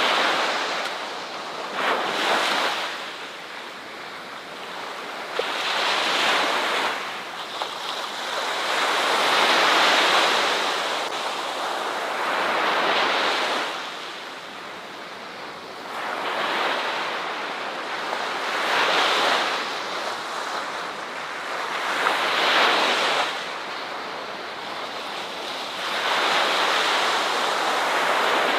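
Ocean waves breaking on a shore, the surf swelling and falling away in surges every few seconds.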